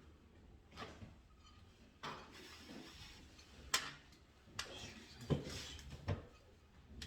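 Light, irregularly spaced clicks and knocks of hand work with small tools and parts, about half a dozen over several seconds, the sharpest a little past the middle.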